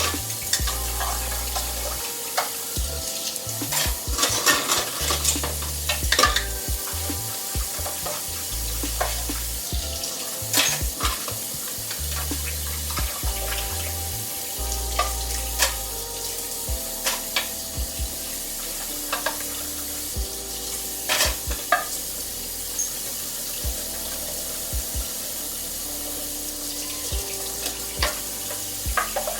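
Dishes and utensils clinking and knocking over a steady hiss, with background music whose low bass notes fade out about halfway through.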